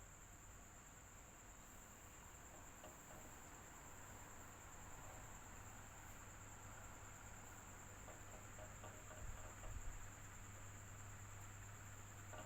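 Electric fan running steadily: a faint low hum and soft hiss with a constant high-pitched whine over them, and a couple of low bumps about nine seconds in.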